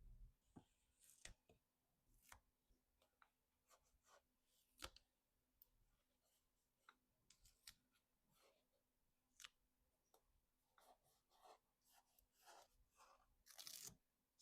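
Faint, irregular clicks, taps and light rustles of small objects being handled by hand, with a longer rustle near the end.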